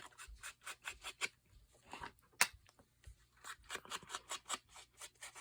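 Scissors snipping paper in an irregular run of short cuts and clicks, thicker toward the end, with one sharper click about two and a half seconds in.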